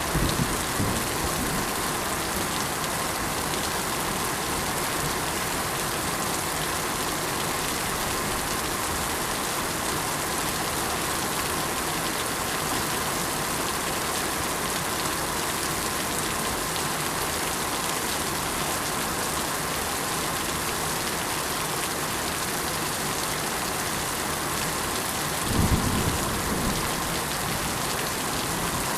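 Steady rain falling, a dense, even hiss. A brief low rumble rises and fades just after the start and again near the end.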